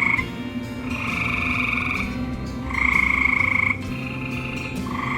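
Frogs trilling at dusk: several pulsing trills of about a second each, following one another at slightly different pitches, from more than one frog.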